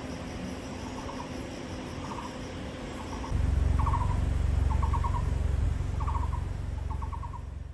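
An animal's short trilled call, repeated about once a second and growing louder. A low rumble sets in suddenly about three seconds in and fades out near the end.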